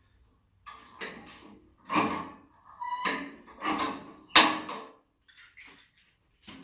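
Sheet-metal downpipe being worked by hand: a run of short scrapes and clanks of metal, with a brief ringing tone near three seconds in and the loudest clank a little past four seconds.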